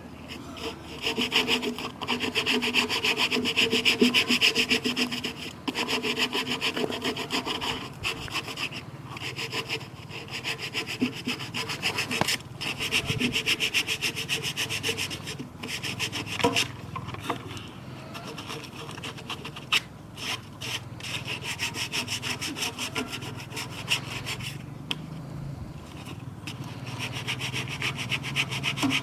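A saw cutting through wood, a fast repeated scraping that comes in bouts of a few seconds with short pauses between them.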